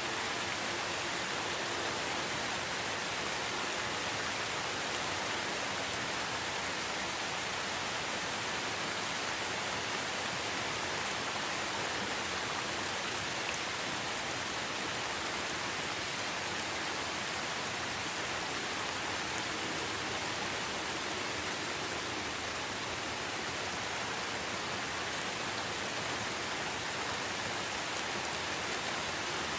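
Steady rainfall in a rainforest: an even, unbroken hiss of rain with no let-up.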